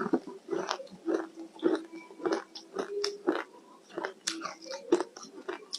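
Ice being bitten and chewed, about a dozen sharp crunches at roughly two a second.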